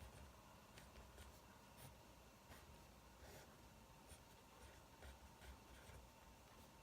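Faint crackling of burning firewood: scattered, irregular sharp pops and clicks over a low hiss.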